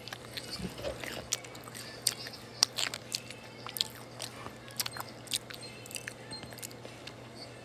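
Close-miked chewing and biting of French fries: irregular wet mouth clicks and small crunches, the sharpest about two and a half seconds in.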